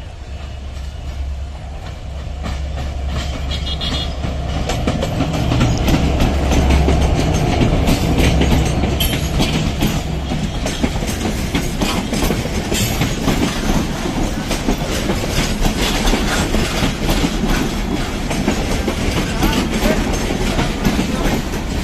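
Diesel locomotive rumbling as it approaches and passes close by, followed by a passenger train's coaches rolling past with wheels clattering over the rail joints. The sound grows louder over the first several seconds, then stays as a steady rushing clatter.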